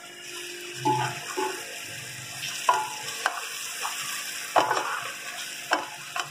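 Onion-tomato masala frying in oil in a metal pot, hissing steadily, while a wooden spoon stirs it and knocks and scrapes against the pot several times.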